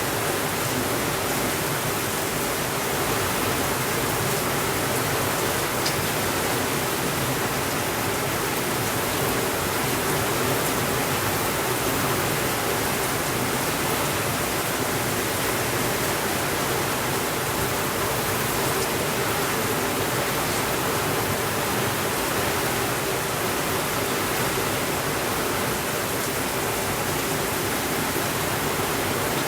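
Steady rainfall, a constant even hiss with no thunder, and a few faint clicks now and then.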